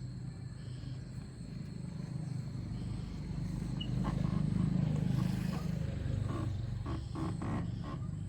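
An engine running with a steady low rumble that grows louder about four seconds in, with a few sharp clicks or knocks near the end.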